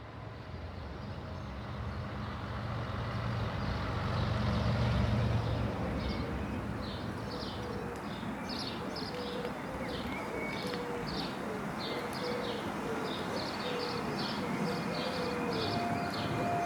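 A low rumble swells to a peak about five seconds in, then eases into a steady noisy background. From about six seconds in come rapid, repeated high chirps, a couple each second, over a faint wavering tone.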